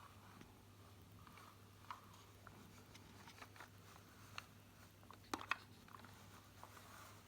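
Near silence with faint scattered clicks and taps of a toy truck being handled, two sharper clicks about five seconds in, over a low steady hum.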